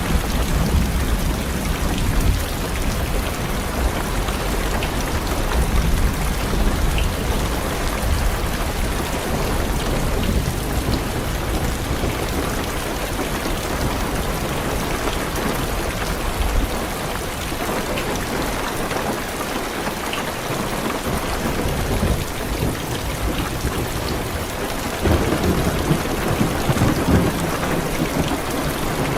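Heavy rain falling steadily on a car's windows and roof, with deep rolling thunder that rumbles through the first half and fades away a little past the middle. The rain swells louder again near the end.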